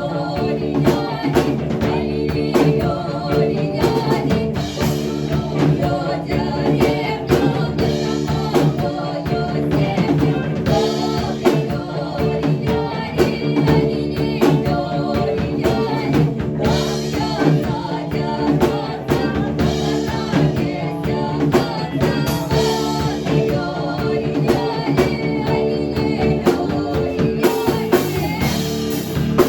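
Folk-rock band playing a Russian folk song: a singing voice over a drum kit with a steady beat and sustained bass and chord notes.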